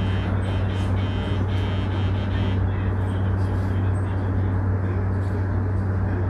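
Steady low hum inside a standing electric commuter train, its onboard equipment running while it waits without moving. A faint pulsing electronic tone sounds over it for the first two and a half seconds or so.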